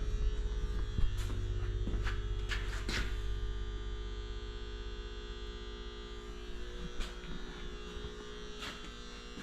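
Steady electrical hum, slowly fading, with a few scattered clicks and knocks of hands working on the wiring.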